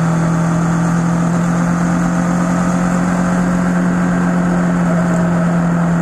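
Kawasaki ER-6n's parallel-twin engine running at a steady cruising speed, a constant-pitched drone, with wind rushing over the microphone.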